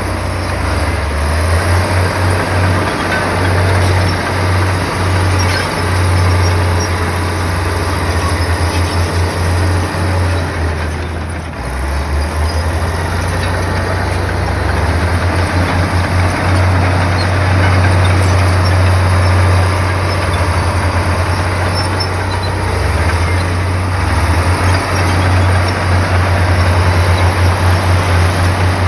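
Diesel engine of a heavy earthmoving machine running steadily with a deep, pulsing throb, dipping briefly about halfway through.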